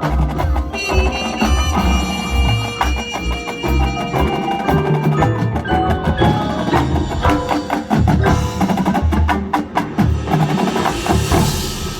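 Marching band music carried by its percussion: mallet instruments and chimes ringing over a pulsing low drum beat, with a rising cymbal-like wash near the end.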